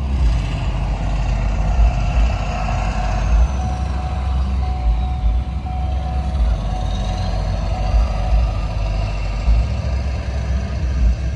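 Motor vehicle running, with a loud, uneven low rumble and a steady whine through the middle.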